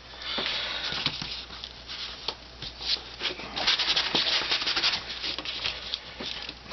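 Hands rubbing and handling a thin sheet of wood veneer and its veneer tape: dry rustling and crackling with many small clicks, busiest a little past the middle.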